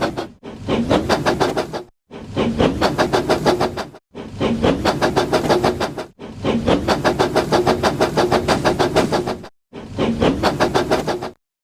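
Battery-powered toy train's small motor running, with a steady hum and a rapid clatter of about seven or eight clicks a second from its gears and wheels. The sound comes in several short runs that each stop abruptly.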